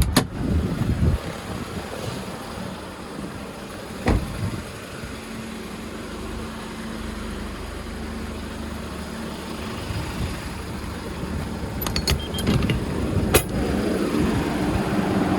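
Hyundai Porter 2 refrigerated truck running at idle, with a few sharp clicks and knocks. A steady hum comes in about five seconds in, and the running sound grows louder toward the end.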